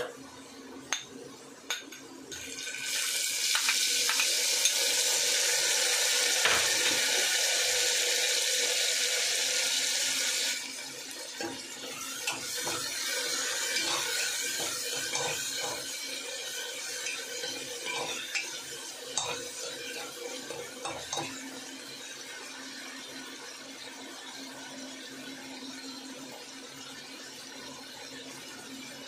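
Chopped tomatoes hitting hot oil and fried onions in an aluminium pressure cooker: a loud, even sizzle for several seconds that cuts off sharply. A softer sizzle follows, with a metal spoon stirring and clinking against the pot for about ten seconds, then only a faint steady sizzle.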